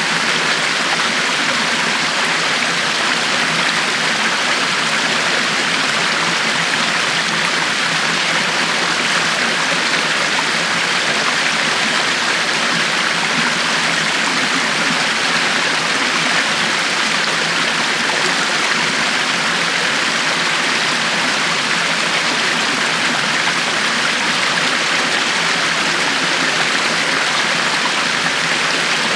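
River water flowing over stones, a steady, even rush of running water with no changes.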